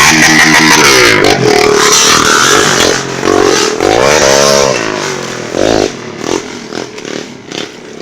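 Trail motorcycle engine revving hard, its pitch climbing and falling several times. After about five seconds it gets quieter, with scattered knocks and rattles.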